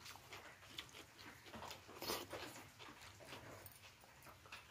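A person eating close to the microphone: chewing with short mouth smacks and clicks, a few a second and unevenly spaced, with one louder smack about two seconds in.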